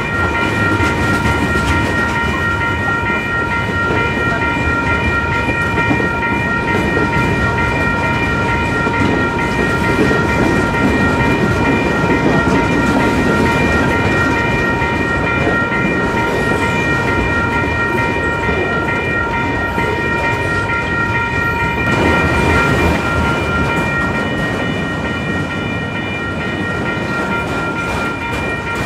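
A train passing close by, its cars rumbling and clattering over the rails. Several steady high-pitched tones ring over it without changing pitch, and the lowest of them drops out about two-thirds of the way through.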